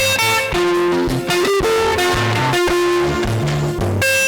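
Worship band music without singing: plucked electric guitar lines over a moving bass guitar, with short percussive strikes.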